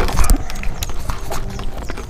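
Close-miked eating sounds: wet chewing and mouth clicks, irregular and sharp, with fingers squishing rice and curry on a steel plate.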